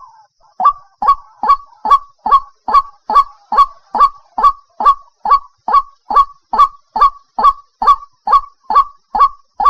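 White-breasted waterhen (ruak-ruak) calling a loud, rapid series of short honking notes, about two and a half a second, evenly spaced after a brief pause at the start.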